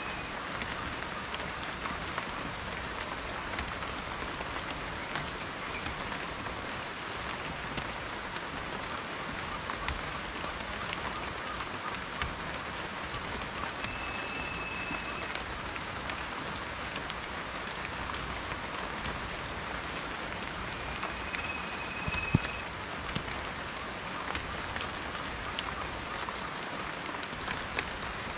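Steady rain with many individual raindrops ticking and pattering, and one louder drop striking about three-quarters of the way through.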